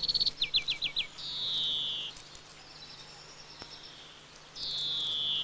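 Small songbirds singing: a quick high trill, then four short down-slurred notes, then long high notes falling in pitch, one about a second in and another near the end.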